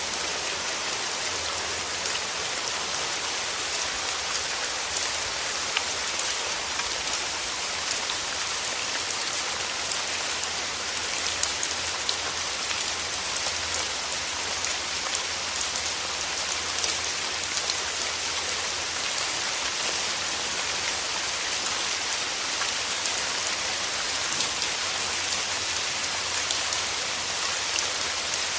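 Steady rain falling: an even hiss sprinkled with many small, sharp drop impacts, holding the same level throughout.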